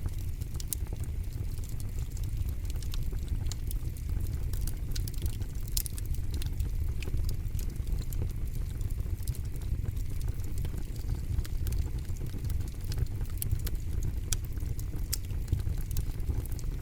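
Campfire burning, with a steady low rumble of flames and frequent sharp, irregular crackles and pops from the burning wood.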